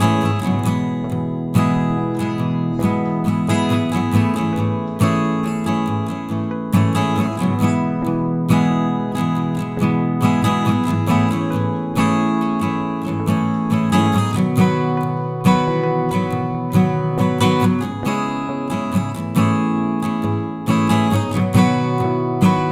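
Acoustic guitar music, strummed chords with a regular rhythm.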